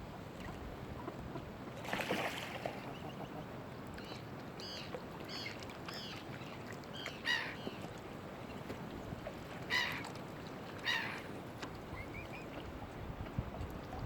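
A run of short bird calls: several faint ones about four to six seconds in, then three louder, harsher calls later on, over a steady low background hiss. A brief rushing noise comes about two seconds in.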